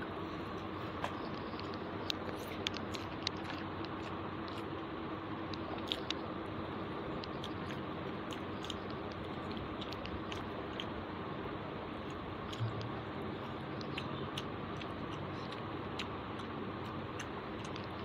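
A person chewing and eating a mouthful of rice and chicken curry taken by hand, with scattered sharp wet mouth clicks and smacks. A steady hiss runs underneath.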